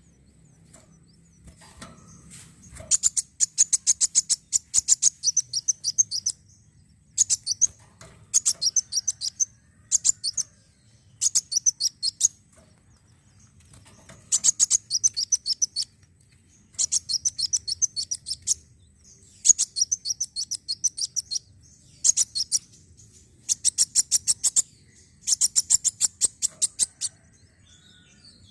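Kolibri wulung (a sunbird) singing in repeated bursts of rapid, sharp, high-pitched chirps. Each burst lasts a second or two, with short pauses between them.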